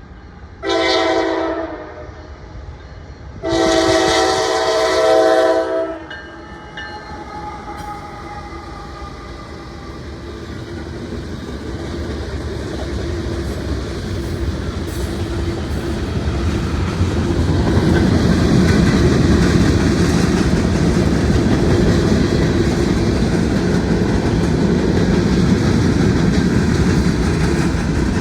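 Diesel freight locomotive's horn sounds a short blast and then a longer one, several notes at once. Then the train's engine rumble and wheel clatter grow steadily louder as the mixed freight train approaches and passes.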